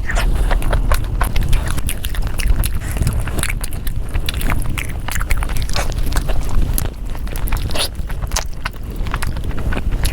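Close-miked eating sounds: chewing and biting food, with dense, irregular clicks and wet smacks.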